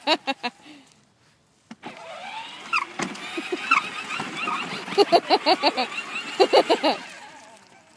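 A child's electric ride-on toy tractor running under foot-pedal power, its electric motor whirring in pulses a few times a second.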